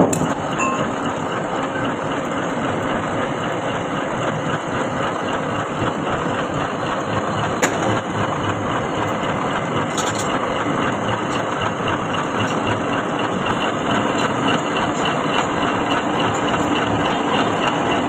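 Metal lathe running steadily while cutting a coarse 4 TPI thread on a long shaft, with a sharp click about eight seconds in and another about ten seconds in.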